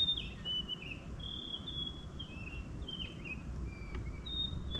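A bird calling nearby: a quick series of short, high whistled notes, several dropping in pitch, over a low steady background rumble.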